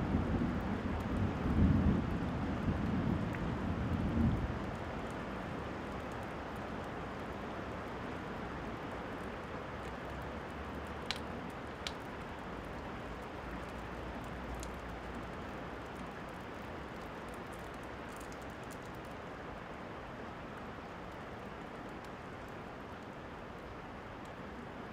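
Steady rain with a rumble of thunder dying away over the first four seconds or so, then rain alone. A couple of faint clicks near the middle.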